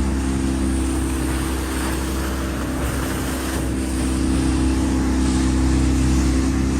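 Sailboat's engine running at a steady speed over a continuous rush of noise.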